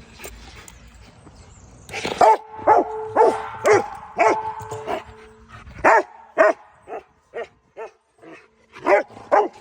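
Rottweiler barking in play: a run of about a dozen sharp barks, roughly two a second, starting about two seconds in.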